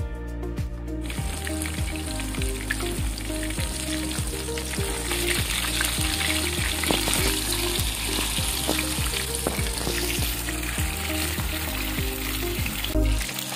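Flour-coated chicken fillets sizzling as they shallow-fry in hot oil in a pan while a wooden spatula turns them. The sizzling starts about a second in and gets louder about halfway through.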